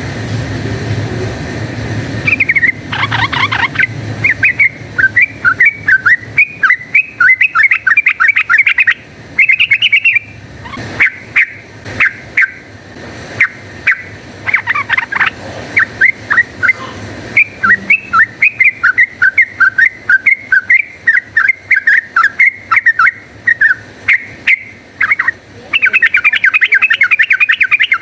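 Sooty-headed bulbul (trucukan) singing a rapid, chattering run of quick short notes. The run begins about two seconds in, breaks off briefly several times, and is densest near the end. It is the fast, aggressive 'fighting' song used as a lure to set kept bulbuls singing.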